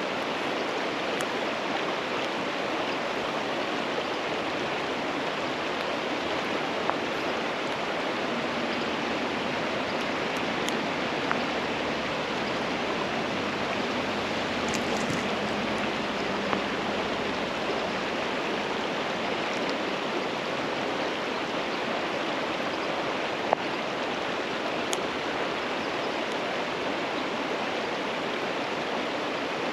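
Merced River water running in a steady, even rush, with a few brief faint clicks.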